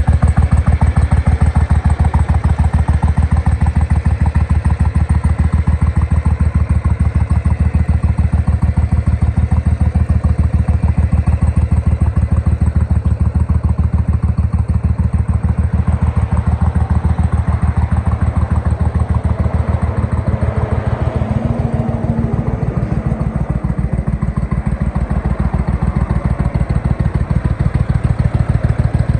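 The 2000 Suzuki Intruder 1500's V-twin engine idling steadily with an even, fast pulse of exhaust beats.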